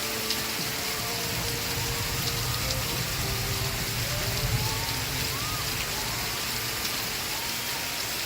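Steady rain hiss, with faint music from an old TV variety show playing underneath.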